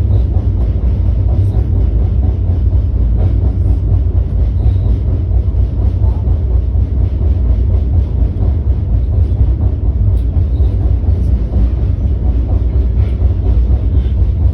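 Steady low rumble with a noisy haze above it, unbroken throughout.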